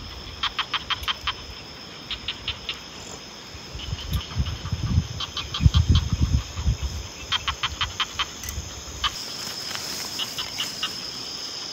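A night bird calling in quick runs of four to six short, sharp, evenly spaced notes, repeated every second or two, over a steady high trill of insects. Low rumbling thumps come and go in the middle.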